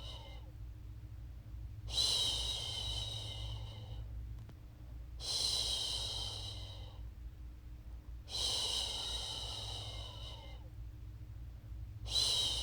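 A woman's voice shushing a baby to sleep: long, repeated "shhh" sounds, each starting strongly and trailing off, about every three seconds. A low steady hum runs underneath.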